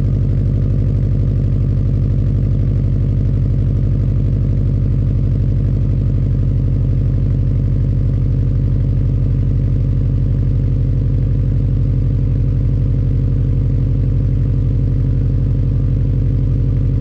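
2020 Subaru WRX STI's EJ turbocharged flat-four idling steadily through a Remark R1 exhaust after a cold start, with the uneven, pulsing Subaru rumble.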